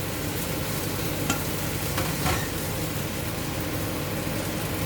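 Chicken pieces sizzling steadily as they pan-fry in oil, with a few brief clicks.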